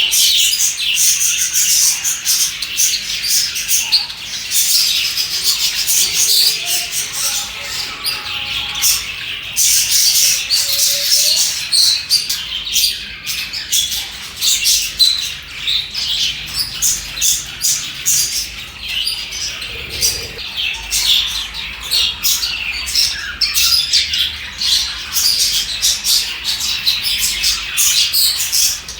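A flock of budgies chirping and chattering continuously, many quick overlapping calls with occasional harsher squawks.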